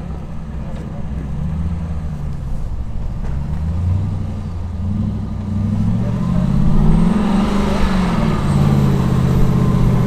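Jeep engine running under throttle on a rock climb, its revs rising and falling repeatedly, getting louder and busier from about halfway through.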